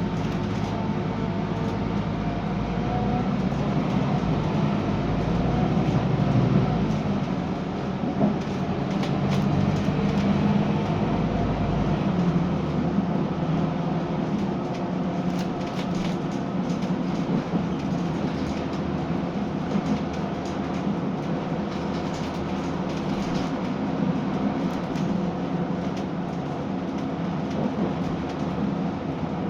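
Scania K320UB diesel bus running under way, its five-cylinder diesel engine droning steadily with scattered faint rattles. The deepest rumble drops away about twelve seconds in.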